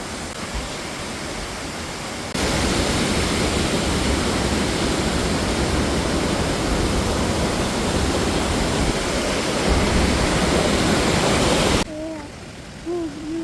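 Rushing water of a large waterfall, a steady dense noise. It jumps abruptly louder about two seconds in and drops off suddenly near the end.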